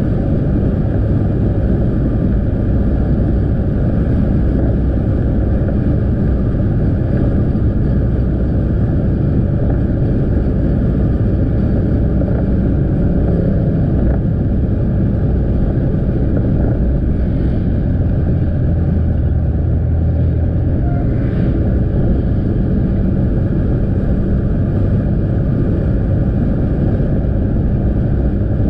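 Motorcycle engine running steadily under way, mixed with road noise from the ride.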